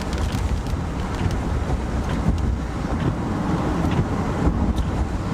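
Steady road and wind noise inside a moving car, with a few faint scattered ticks.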